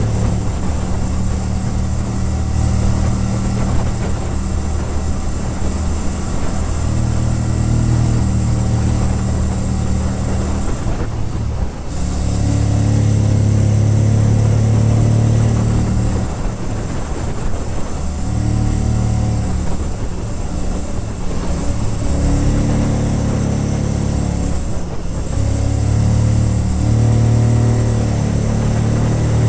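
Honda VTR1000F Firestorm's 90-degree V-twin engine running under load through a Staintune aftermarket exhaust, with wind rush, while the bike is ridden. The engine note steps up and down in pitch with throttle and gears, with two brief dips, one before halfway and one near the end.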